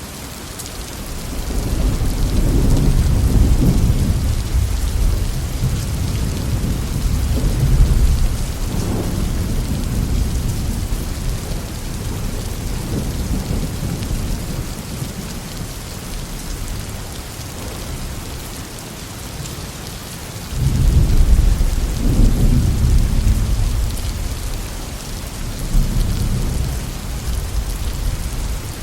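Heavy rain falling steadily, with rolling thunder: a long low rumble builds about a second in and rolls on for several seconds, then a sudden louder peal of thunder breaks about two-thirds of the way through and rumbles away.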